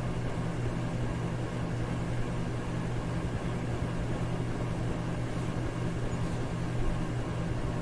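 Electric fan running steadily: an even rush of air over a constant low hum.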